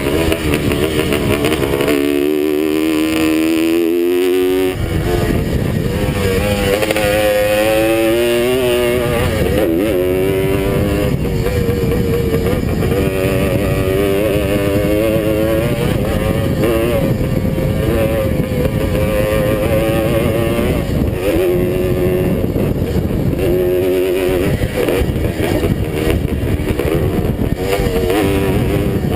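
Vintage Suzuki motocross bike's engine running hard under racing load. Its pitch rises and falls again and again as the throttle is opened and shut.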